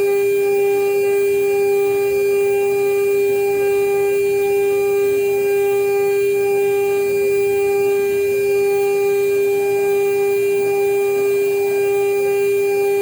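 CNC router spindle running at a steady speed with a constant high whine that does not change in pitch.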